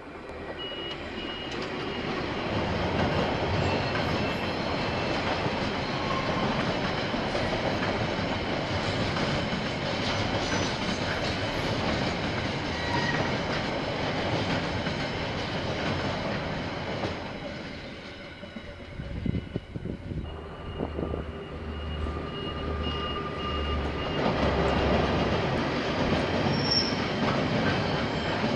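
KiwiRail train rolling past on the rails, steel wheels running with a faint high squeal. The noise builds over the first few seconds, dips briefly about two-thirds of the way through, then rises again.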